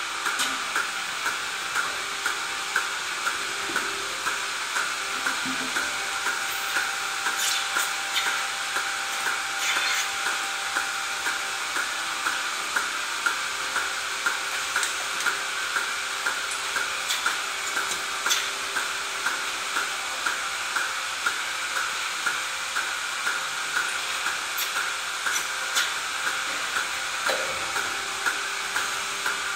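Steady mechanical hiss of dairy barn machinery, with a regular soft pulse a little faster than once a second and a few sharp clicks.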